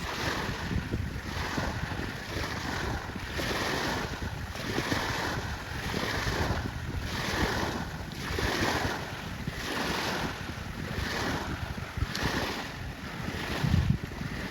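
Wind buffeting the microphone over small waves washing onto a sandy shore, the hiss swelling and fading about once a second. A short low thump comes near the end.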